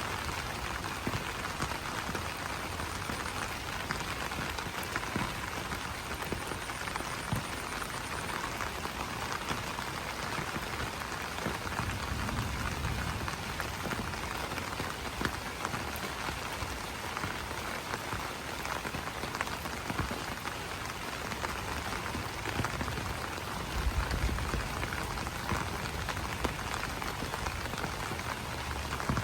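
Steady rain falling on broad banana leaves, a dense patter of drops ticking on the leaves.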